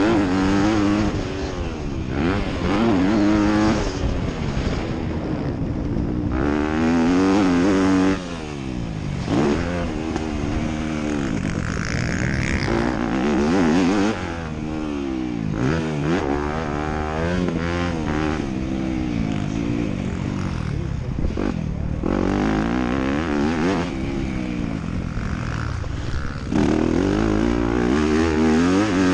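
Motocross bikes racing, their engines revving up and falling away again and again as the riders open the throttle, shift and back off for corners, with more than one engine heard at times.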